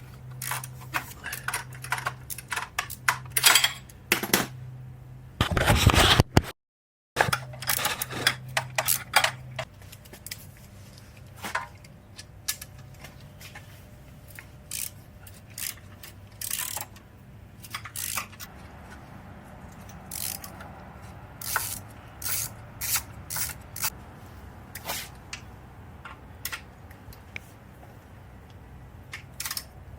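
Hand tools and metal parts clinking and clicking on a motorcycle during exhaust work: scattered sharp metallic knocks, with a denser rattling stretch about six seconds in.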